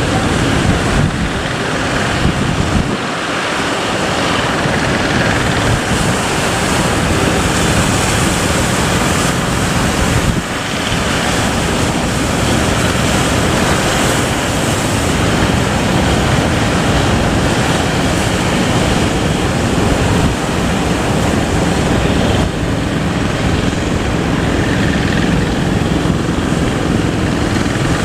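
Heavy surf breaking with strong wind buffeting the microphone, a loud steady rush that dips briefly a few times.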